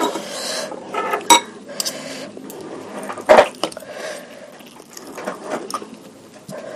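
A spoon clinking and scraping against a bowl of bakso meatballs in spicy broth, with some liquid sounds of the broth. There are small clicks throughout and two sharper knocks, about a second in and again a little past three seconds.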